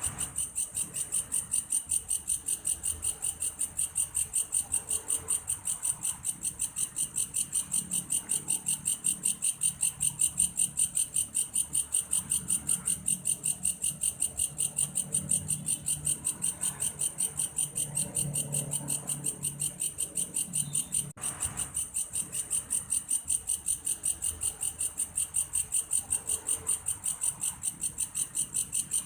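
Belalang kayu grasshopper calling: a steady, rapid, evenly pulsed high-pitched chirring, like a cricket. There is a brief break about 21 seconds in.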